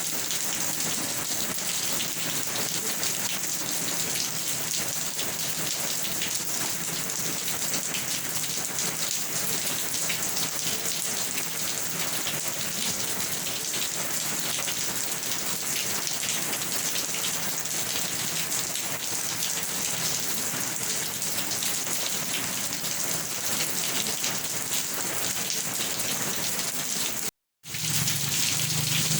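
Steady rain: a dense, even hiss of falling drops. Near the end it cuts out for a split second, then comes back.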